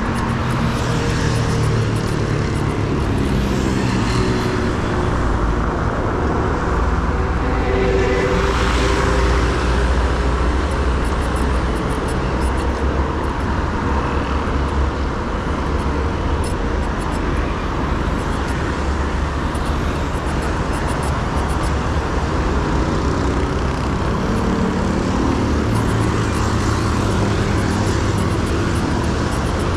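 Steady city road traffic, with the engines of passing vehicles swelling and fading, over a constant low rumble of wind on the microphone while cycling.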